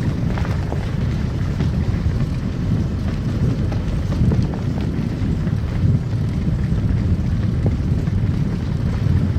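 Car driving on a snowy road: a steady low rumble of tyre and road noise, with scattered light ticks.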